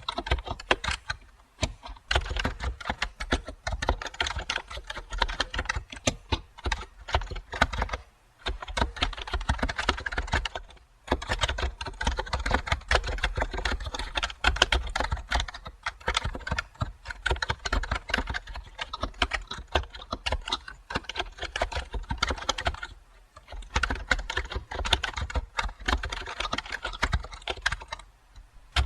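Continuous typing on a computer keyboard, a rapid run of key clicks broken by brief pauses a few times.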